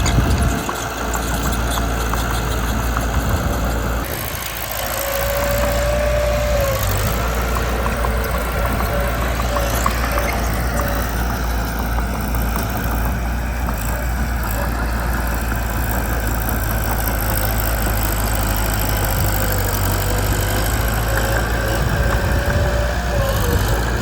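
Mitsubishi BD2 bulldozer's diesel engine running steadily, with a thin squeal for a couple of seconds about five seconds in.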